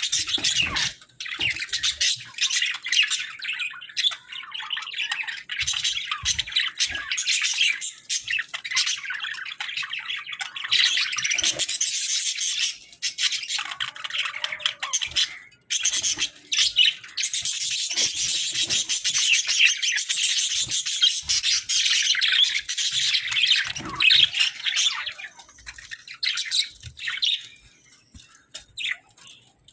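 Hagoromo budgerigars singing and chirping in a dense, rapid stream of high chatter, with brief lulls about 4 and 15 seconds in and a sparser, quieter stretch near the end.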